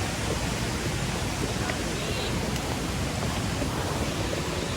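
Steady rush of running water, an even noise with no distinct events.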